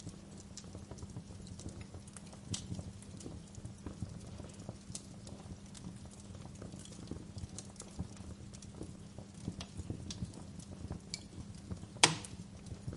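Wood fire crackling, with scattered irregular pops and snaps and one much louder pop near the end, over a faint steady low hum.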